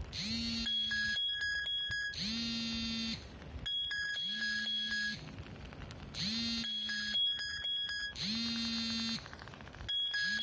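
Electronic ringtone-style melody of held beeping tones and short rising glides, repeating in the same cycle about every two seconds.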